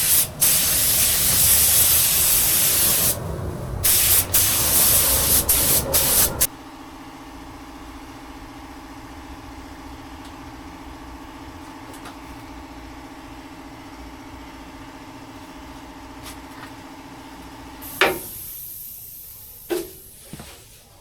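Paint spray gun hissing as base coat is sprayed on, in long trigger pulls with brief breaks. It stops about six seconds in, leaving a steady motor hum that ends with a knock near the end.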